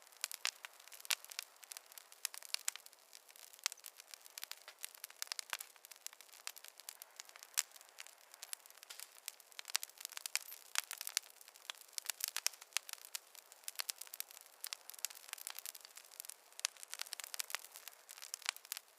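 Fireplace fire crackling, with a steady stream of irregular sharp pops and snaps over a faint hiss.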